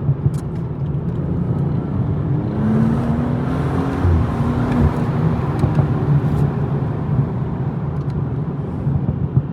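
BMW M240i's turbocharged 3.0-litre straight-six engine pulling the car along at speed, a steady low drone over road noise. About three seconds in, a higher engine note climbs slightly before settling back.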